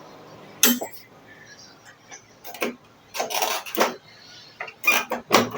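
A few separate clicks and knocks with a short scraping, rubbing stretch in the middle: handling noise around a just-repaired microwave oven as it stops and is opened.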